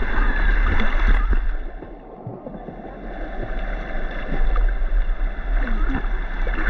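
River water flowing, with wind rumbling on the microphone; the sound drops away for about a second around two seconds in, then returns.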